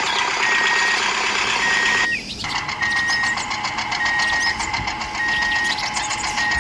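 Small motor of a toy mini tractor running, with a short electronic beep repeating about once a second, like a reversing alarm. The motor noise dips briefly about two seconds in.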